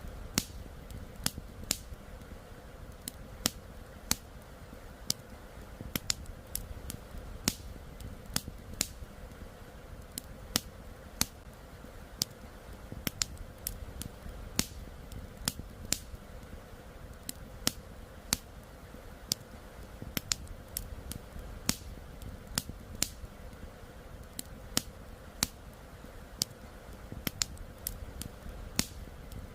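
Wood campfire crackling, with sharp irregular pops several times a second, over a steady low rush of flowing river water.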